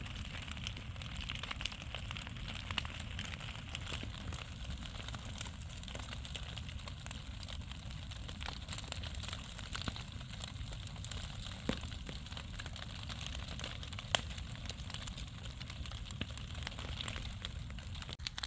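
Large bonfire of branches burning, crackling steadily, with a few sharper pops about a third and three-quarters of the way through.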